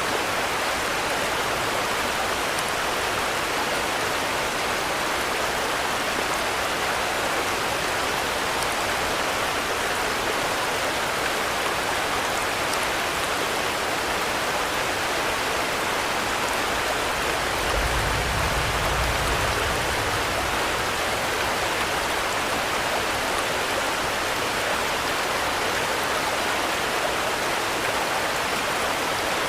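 Steady rainfall, an even hiss with no let-up, with a brief low rumble about two-thirds of the way through.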